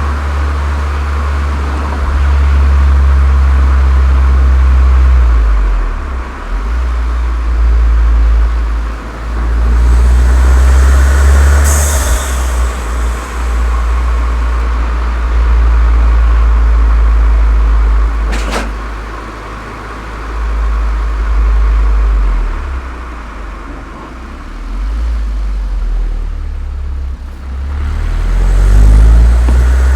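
Volkswagen Golf GTI Mk7's turbocharged 2.0-litre four-cylinder engine with a Cox aftermarket exhaust, its deep drone swelling and easing several times with the throttle. A brief high hiss comes near the middle, a sharp click about two-thirds in, and the engine revs up near the end.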